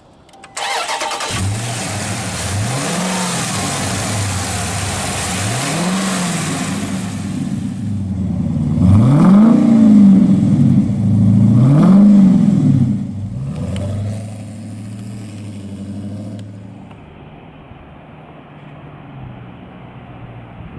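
The 2017 Dodge Challenger SRT 392's 6.4-litre HEMI V8 cranks and fires, then is blipped four times, each rev rising and falling, the last two the loudest. It then settles back to a quieter idle.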